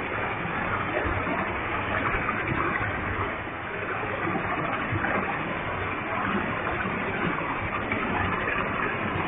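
Waterfall with a heavy flow, water falling and splashing in a steady rushing noise.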